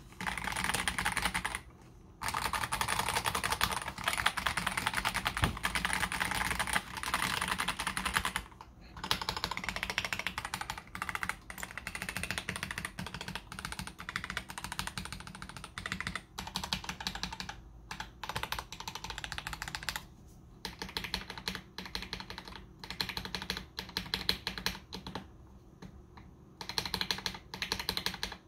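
Fast typing in runs of rapid keystrokes, broken by a few short pauses, on a KBD67 Lite R3 mechanical keyboard fitted with stock, unlubricated AKKO CS Jelly Pink linear switches.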